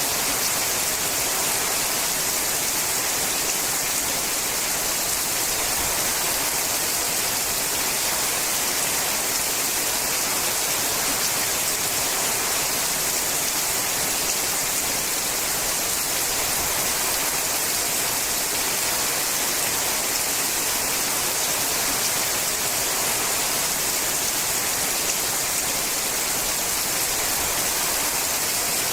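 Steady heavy rain drumming on a sheet-metal roof: a dense, even hiss of countless drops that holds constant throughout.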